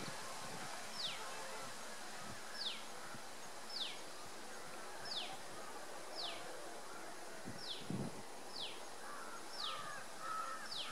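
A bird repeating a short, high, falling whistle about once a second over a faint even hiss. Near the end, crows start cawing.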